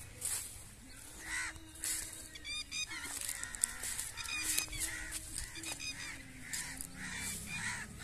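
Wild birds calling: three short runs of quick, repeated chirping notes, about two and a half, four and a half and six seconds in.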